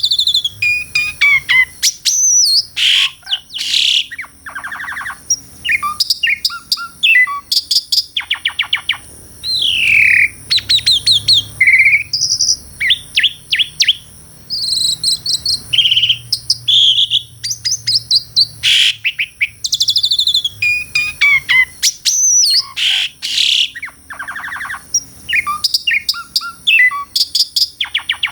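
Asian pied starling (jalak suren) singing a long, varied song: clear whistles that sweep downward, fast rattling trills and chattering notes, following one another with only brief pauses.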